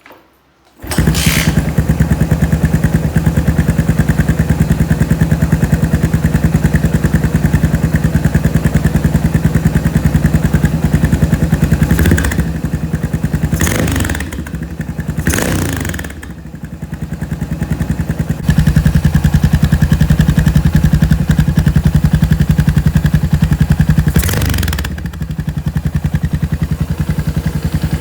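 Yamaha SR500's 500 cc single-cylinder four-stroke engine, fitted with a Peyton Place aftermarket muffler, starting about a second in and settling into a steady pulsing idle. The throttle is blipped four times, three in quick succession in the middle and once more near the end.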